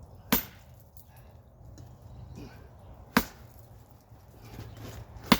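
Three sharp sledgehammer blows, spaced about two and a half to three seconds apart.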